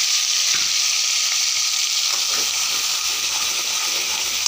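Onion-garlic paste sizzling in hot oil in a metal kadhai, a steady frying hiss.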